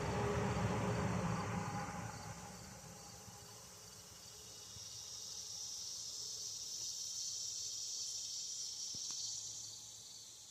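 A passing vehicle fades away over the first two seconds, then a steady, high-pitched insect chirring swells up and dies down near the end, with one faint click.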